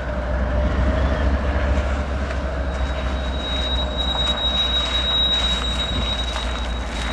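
Freight train rolling slowly along the rails, with a steady low rumble of wheels and running gear and a few faint clicks. A thin, high, steady wheel squeal comes in about three seconds in and holds.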